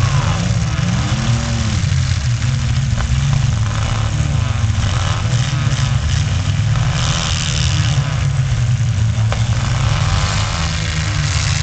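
Several midsize pickup trucks' engines running and revving in a demolition derby, a steady loud engine din with the pitch rising and falling. Two short sharp knocks, about three seconds in and near the end.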